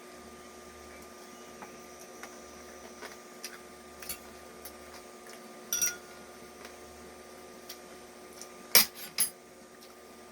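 Utensils and dishes clinking: faint scattered clicks, a ringing clink about halfway through and two loud sharp knocks near the end, over a steady low hum.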